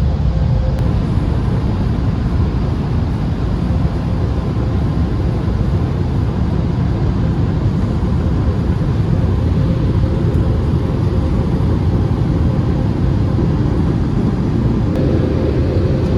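Automatic car wash air-dryer blowers running, a loud, steady rush of air with a faint steady hum in it, heard from inside the car.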